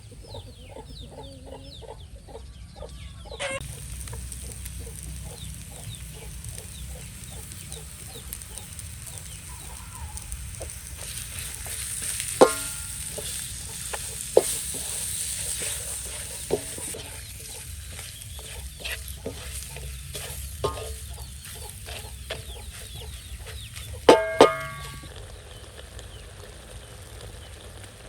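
Noodles and seafood frying in a wok with a sizzle, stirred in quick short strokes, and a spatula knocking sharply against the pan several times, loudest twice in quick succession near the end.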